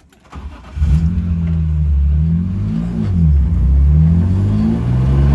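S54 straight-six engine of a 1995 BMW M3 race car starting again after a stall about a second in, then revving as the car pulls away in first gear, its pitch rising and falling.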